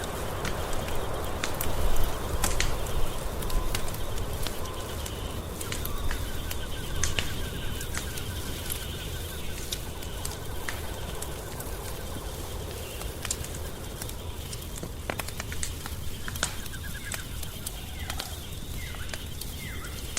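Wood fire crackling, with irregular sharp pops over a low steady rumble, busier in the first few seconds. A few short, high, falling chirps come in near the end.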